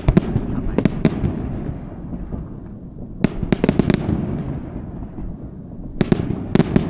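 Fireworks bursting overhead in quick clusters of sharp bangs, at the start, around three seconds in and again near the end, with a low rolling rumble of echo between the clusters.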